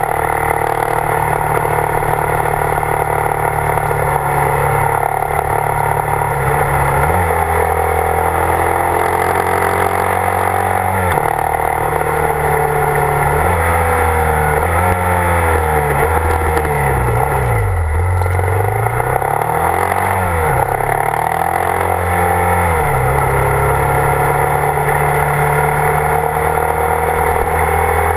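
Motorcycle engine running at road speed, holding a steady note at first with a couple of sudden steps in pitch, then rising and falling several times in a row as the throttle is rolled off and on, before settling to a steady note again.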